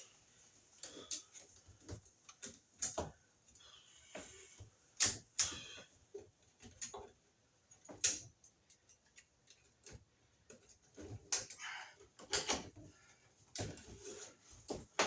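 Irregular clicks, knocks and scrapes of hands and tools working with electrical wire and fittings at close range.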